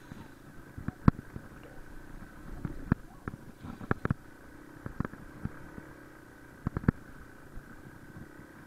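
Dual-sport motorcycle climbing a steep, rocky trail: the engine runs in a low, steady hum while sharp knocks and clatters come at irregular moments as the bike bounces over rocks and ruts.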